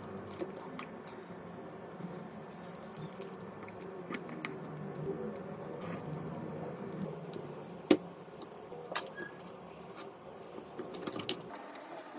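Scattered light clicks and taps of small tools and parts being handled on a smartphone during repair, with one sharper click about eight seconds in.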